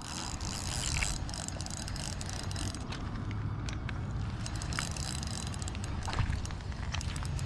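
Steady low rumble of wind on the microphone over the rushing hiss of river water, with scattered light clicks and ticks.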